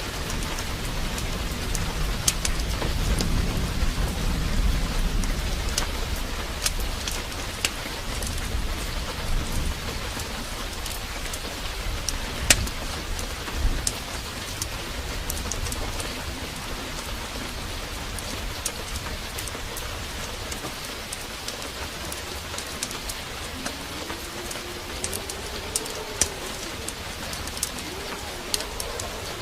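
Steady downpour of rain, with a low rumble of thunder swelling in the first few seconds and scattered sharp clicks throughout. Near the end a low, wavering cooing call, like a dove, comes in over the rain.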